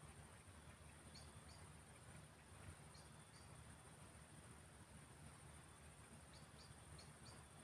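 Faint field soundscape at dusk: crickets trill steadily and high-pitched. Four pairs of short, high chirps come a second or two apart, over a low, even rumble.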